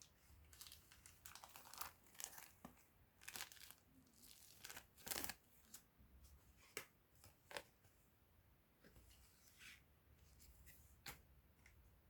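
Faint crinkling and rustling of packaging being handled and opened, in short irregular strokes with a few small clicks.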